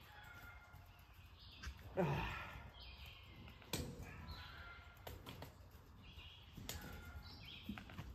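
Songbirds singing in short repeated phrases, with a few sharp knocks and one short, louder low sound about two seconds in.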